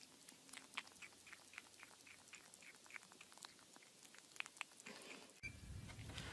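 Kitten gnawing on the rim of a plastic bowl: faint, quick clicking bites, about three or four a second, stopping about five seconds in. After that a low hum takes over.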